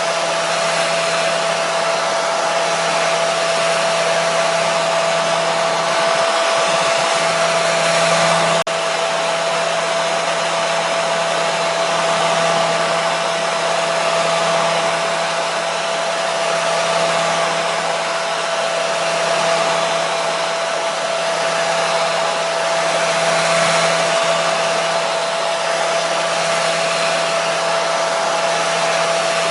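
Hair dryer running steadily: a constant rush of air with an unchanging motor whine, and a faint click about nine seconds in.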